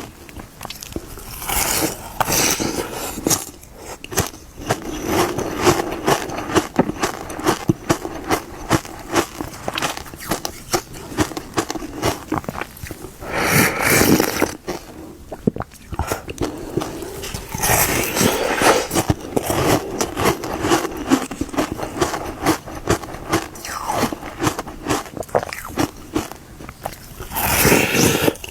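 Close-up biting and chewing of a hard homemade frozen milk-drink ice, with dense crisp crunching and cracking and a few louder bites spread through.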